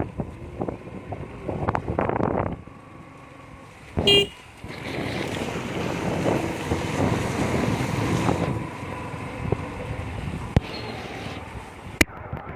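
Wind gusting on the microphone, a short vehicle horn toot about four seconds in, then a steadier rushing noise of passing road traffic for a few seconds.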